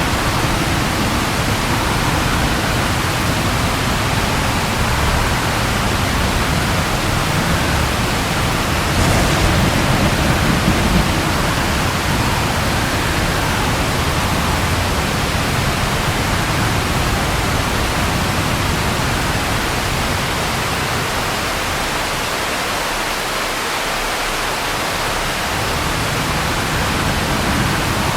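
Steady rain falling as an even hiss, with a low rumble of thunder swelling briefly about nine seconds in.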